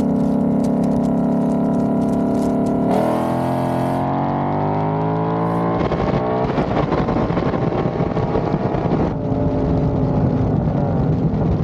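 Car engine running steadily, then accelerating with revs rising in pitch. There is a shift-like break about six seconds in and another about nine seconds in, each followed by rising revs again.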